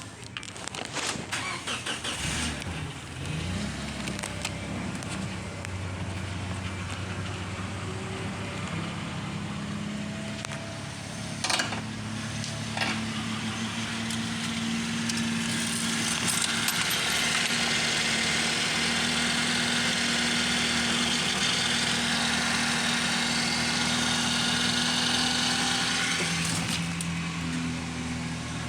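Toyota HiAce engine being started: choppy and uneven for the first few seconds as it catches, then running steadily. Two sharp clicks come a little before halfway, and a hiss joins the engine sound for about ten seconds in the second half.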